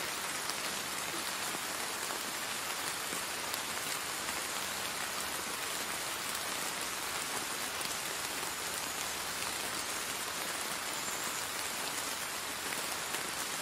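Steady rain falling: an even hiss of rain with scattered faint drop ticks, unchanging in level.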